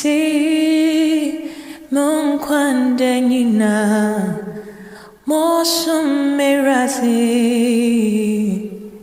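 A woman singing a slow Yoruba gospel song in three long held phrases with vibrato, each fading away before the next begins.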